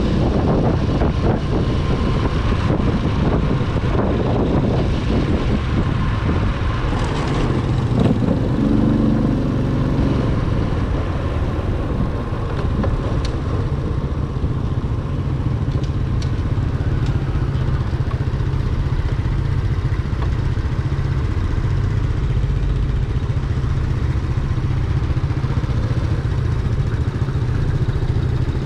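A Corven 110 Energy motorcycle's small single-cylinder engine running under way. Heavy wind rumble on the microphone dominates the sound.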